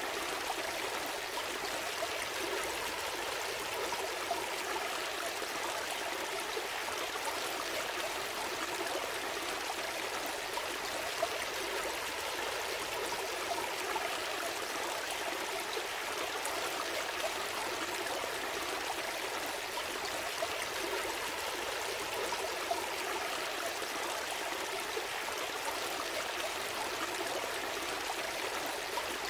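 A small stream flowing and trickling steadily.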